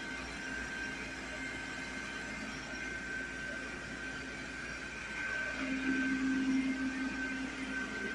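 iRobot Roomba robot vacuum running: a steady high whine over a low hum and hiss. The hum gets louder about five and a half seconds in and eases off near the end.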